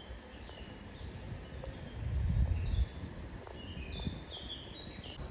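Small birds chirping in a tree, many short high calls scattered throughout, with a brief low rumble about two seconds in.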